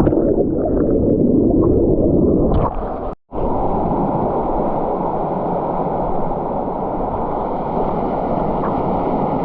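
Waterfall water rushing into a pool, heard muffled and deep, with gurgling over the first few seconds and then a steady rumble. The sound breaks off for a moment about three seconds in.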